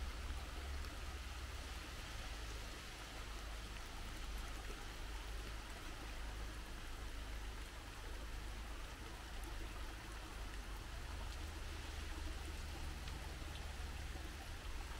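Steady rain pattering on leaves and the ground, a constant even hiss with scattered faint drop ticks, over a low rumble.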